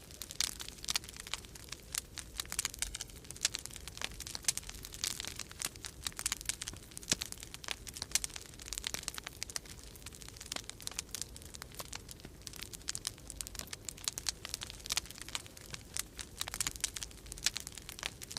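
Wood fire in a fireplace crackling and popping continuously in dense, irregular snaps, over a low steady rumble of storm wind.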